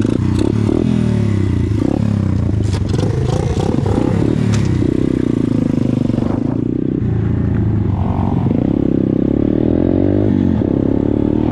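Pit bike engine running and revving up and down repeatedly, with a few sharp clattering knocks in the first half.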